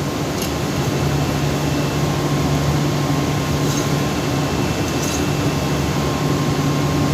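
Steady mechanical hum of running machinery, with a strong low drone and a faint constant high tone, and a few faint clicks.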